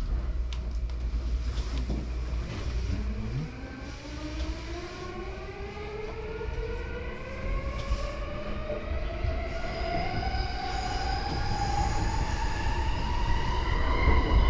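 JR Yamanote Line E235-series electric train accelerating: the traction motors' inverter whine rises steadily in pitch from about three seconds in, over a low running rumble of wheels on track. It grows louder toward the end.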